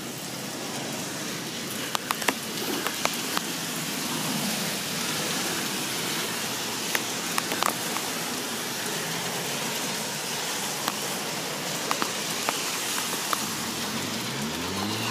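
Steady rain falling on wet pavement, an even hiss with scattered sharp drop ticks. Near the end a vehicle's engine rises in pitch as it passes or pulls away.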